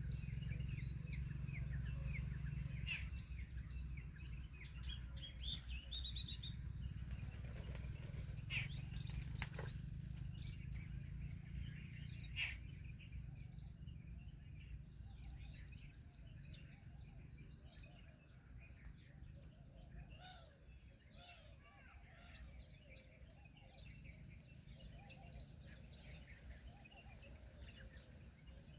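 Small birds chirping, with a quick run of trilled notes about halfway through. A few sharp clicks sound here and there, over a low steady rumble that fades somewhat after the first half.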